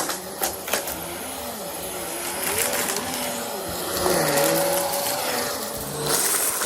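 Vacuum cleaner running, its motor pitch rising and falling as it works, with a few sharp clicks in the first second.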